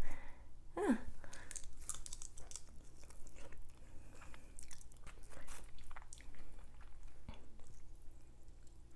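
Close-miked chewing and crunching of spicy seafood-boil shrimp, with wet, irregular clicks and crackles of the bite. A brief falling sound about a second in.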